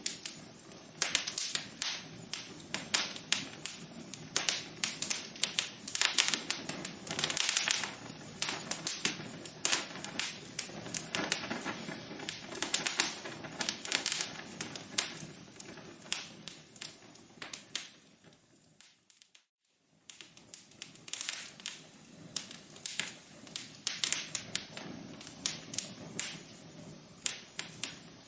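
Wood fire crackling in a fireplace, with dense, irregular pops and snaps. About two-thirds of the way through it drops almost to silence for roughly a second, then the crackling picks up again.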